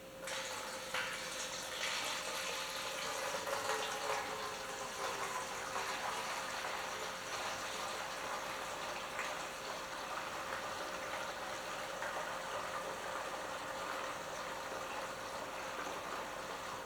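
Liquid tank cleaner being poured from a jug through a funnel into a steel tractor fuel tank. It is a steady splashing pour that starts abruptly and thins out near the end.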